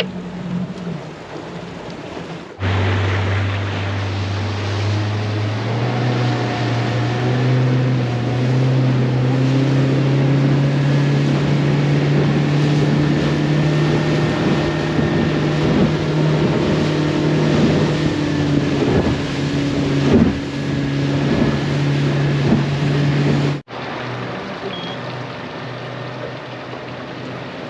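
Boat engine running under way, with wind and water noise; a few seconds in it rises in pitch as it speeds up, then holds a steady pitch.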